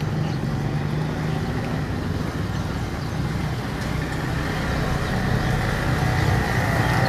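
Road traffic: a motor vehicle running with a steady low engine hum, growing louder in the second half.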